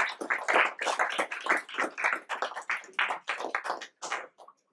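Hands clapping in quick, even strokes, about four claps a second, thinning out and dying away about four seconds in.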